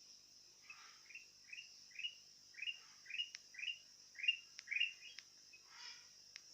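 Sooty-headed bulbul (kutilang) calling: a quick run of about ten short upslurred chirps, two to three a second, then a softer call near the end, over a steady high hiss.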